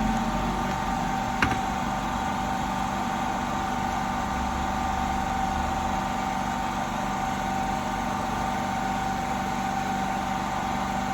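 Steady machine hum with a constant tone, and a single sharp click about one and a half seconds in.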